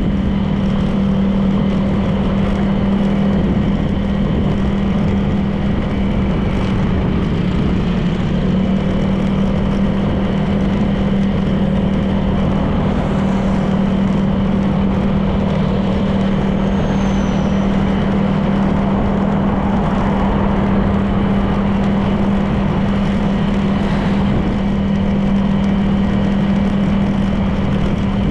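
Honda PCX 160 scooter's single-cylinder engine running at a steady cruising pace, a constant drone under a steady rush of road and wind noise.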